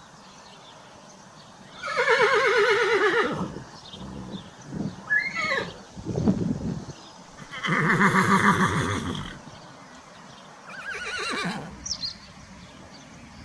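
Horse whinnying three times, each call quavering and dropping in pitch, the last one weaker, with shorter lower sounds between the first and second calls.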